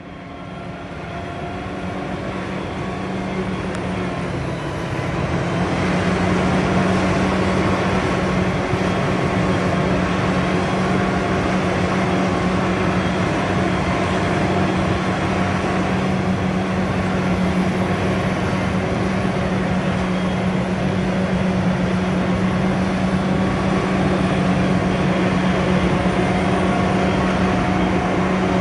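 Diesel engine of heavy farm machinery running steadily, with a strong low hum and a rush of mechanical noise over it. It grows louder over the first six seconds, then holds steady.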